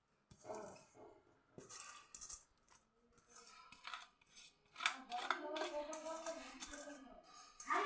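Metal spoon scraping and clinking against steel pots in a run of short, irregular strokes as cooked rice is spooned out and layered into the biryani pot.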